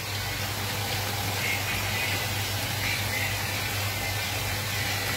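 Sliced mushrooms frying in a pan, a steady sizzle now that the wine has cooked off and they are starting to brown, over a low steady hum.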